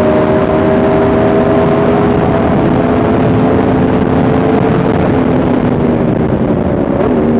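Yamaha R1M's crossplane inline-four engine pulling steadily under way, its note rising slowly, then dropping sharply about seven seconds in as it shifts up a gear, with a steady rush of wind and road noise underneath.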